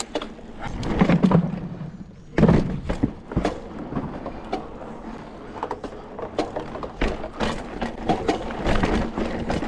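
Mountain bike riding over wooden trail features: the tyres knock and thud on the boards in an irregular run of impacts, loudest about a second and again about two and a half seconds in.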